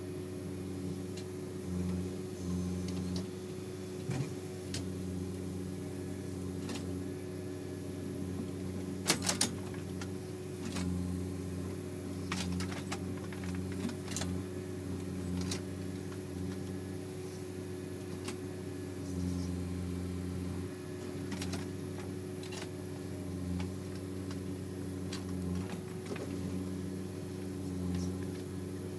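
Backhoe loader's diesel engine running steadily with small rises and falls, with scattered sharp clanks and knocks. The loudest is a quick cluster about nine seconds in.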